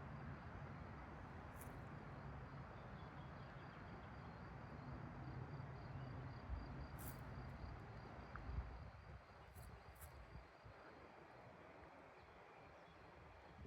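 Faint quiet meadow ambience: a thin steady insect trill over a low rumble of wind, with a few brief high ticks.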